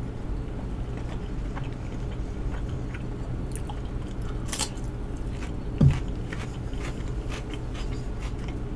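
A person chewing food, with a crisp crunch about four and a half seconds in as a raw cucumber spear is bitten. There is a short low vocal sound near six seconds, over a steady low hum.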